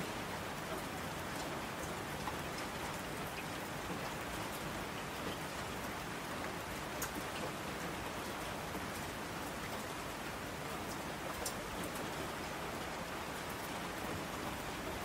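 Steady rain falling in a dense, even patter, with a few sharper drop clicks here and there.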